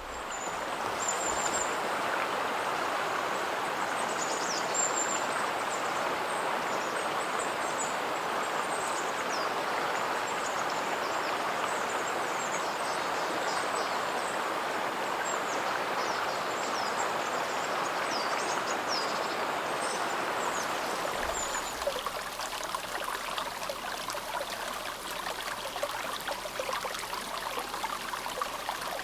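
Clear snowmelt water of a mountain river, the Azusa, babbling steadily over stones. Short high chirps come and go over it for the first two-thirds. About 21 s in the flow changes to a slightly softer, more trickling sound.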